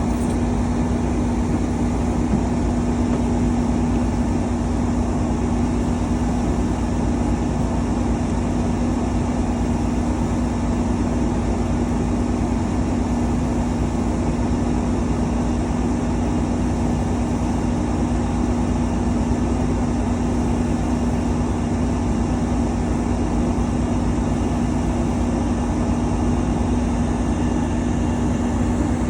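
Steady road noise of a moving car, a constant rushing with a low steady hum that does not change.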